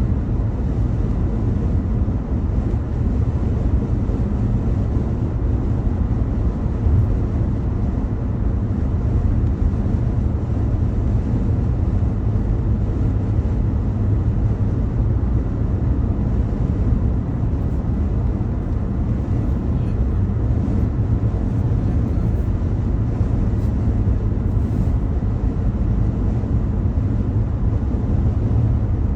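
Steady low rumble of a car driving at speed, tyre and road noise with engine drone, with no distinct events.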